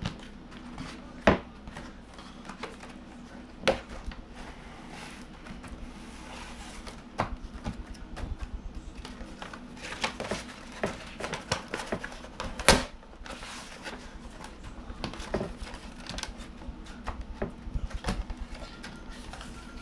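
Grip tape sheet being handled and laid onto a skateboard deck: rustling and crinkling of the sheet with scattered light taps, and a few sharper knocks against the board.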